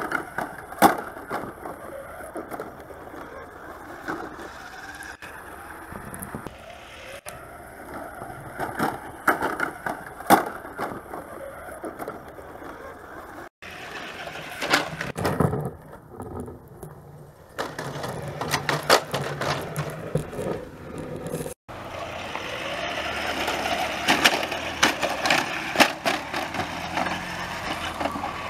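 Radio Shack Extreme Machine RC monster truck driving: its dual electric motors running and its wheels rolling and bumping over the ground, with frequent knocks and clatters. The sound cuts off abruptly twice and is louder and busier over the last several seconds.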